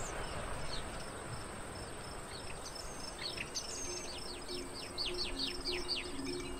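Outdoor ambience: a steady hiss with a bird singing a quick run of high, downward-sweeping chirps from about three seconds in. Soft sustained music notes fade in about four seconds in.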